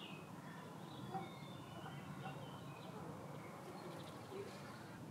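Faint birdsong: scattered short chirps and calls of small birds over a low, steady background noise.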